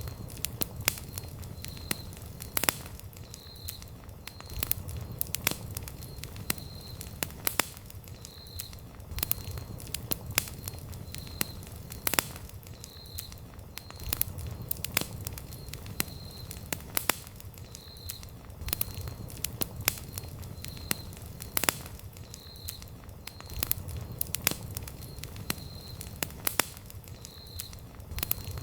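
Wood campfire crackling: irregular sharp pops and snaps from the burning wood over a low, steady rumble of the flames, with a faint high chirp recurring about once a second behind it.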